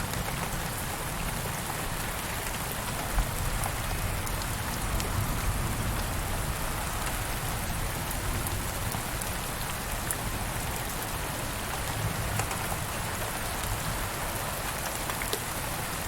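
Steady rain falling on a surface, with scattered individual drops and a single sharper drop or knock about three seconds in.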